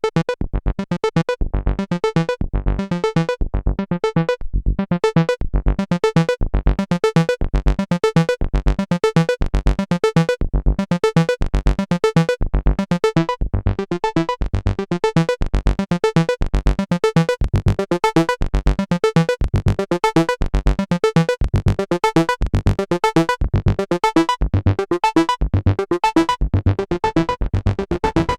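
Moog Sub Phatty analog monophonic synthesizer playing a sequenced pattern: a fast, even run of short pitched notes, with a deep bass note recurring in a steady rhythm.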